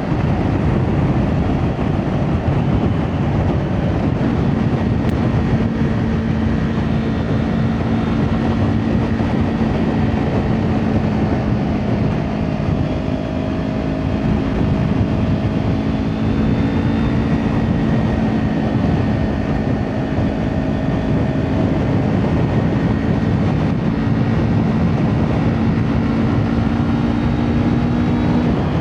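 Kawasaki Ninja 400 parallel-twin engine through an Akrapovic exhaust, running at a steady cruising pitch under wind and road noise. Its steady note breaks off just before the end.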